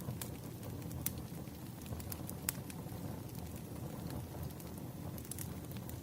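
Campfire burning: a steady low rumble of flames with scattered sharp crackles and pops from the burning wood, about half a dozen standing out.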